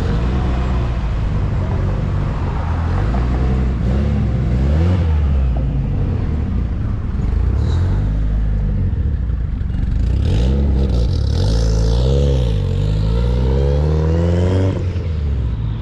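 Car engines running at low revs, their pitch rising and falling with several blips of the throttle, most clearly about five seconds in and again near twelve seconds.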